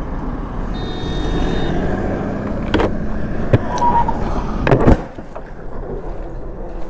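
Motorcycle on the move, with a steady engine and wind rumble and a few sharp knocks, the loudest just before five seconds in; after that the sound drops and is quieter. A brief high tone sounds about a second in.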